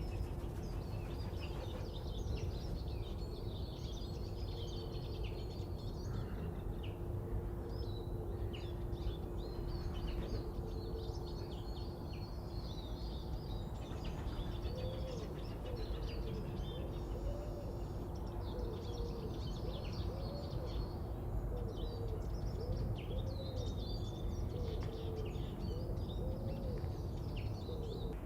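Several songbirds chirping and singing over a constant low rumble and a steady faint hum. About halfway through, a repeated low call starts, about once a second, and runs on to near the end.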